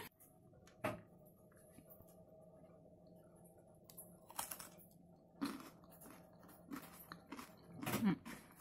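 Someone biting into and chewing a slice of cake with a crisp chocolate puffed-rice base: faint, scattered crunchy clicks. A single tap about a second in, and a short vocal murmur near the end.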